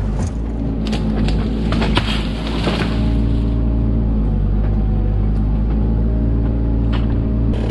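Mini excavator's diesel engine running steadily, with scattered clanks and rattles, the heaviest between about one and three seconds in.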